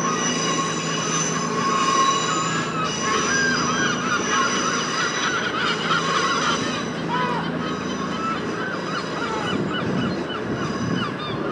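CrossCountry Voyager diesel multiple unit moving slowly over curved track, its diesel engines running. A high, wavering wheel squeal comes and goes over steady high tones.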